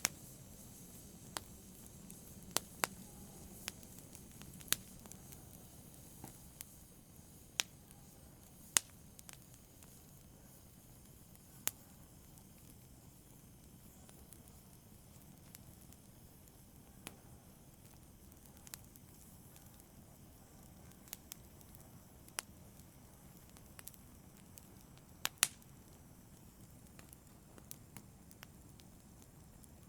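Fireplace fire crackling: sharp, irregular pops every second or few over a faint low hiss, with a quieter stretch about halfway through.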